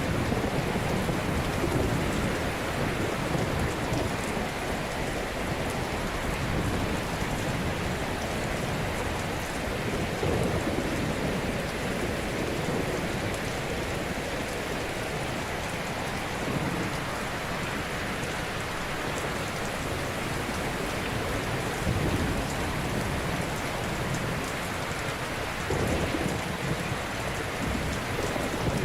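Ocean waves breaking gently on a shore: a steady wash of surf with a low surge as a wave comes in every several seconds.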